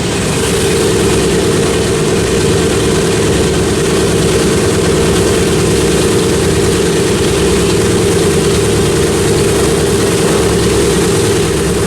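World War II bomber's piston radial engines running at high power for takeoff: a loud, steady propeller-engine drone.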